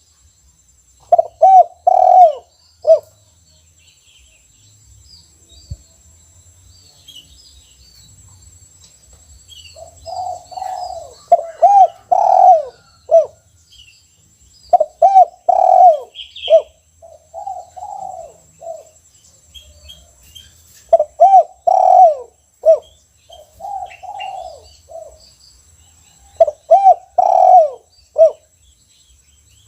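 Spotted dove cooing repeatedly, in phrases of several coo notes separated by pauses of a few seconds. Faint chirps of small birds come in between the phrases.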